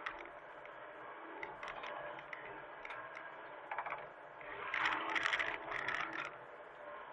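Hitachi mini excavator at work: a steady machine hum with scattered metallic knocks and clatter. A louder stretch of scraping and rattling comes about five seconds in.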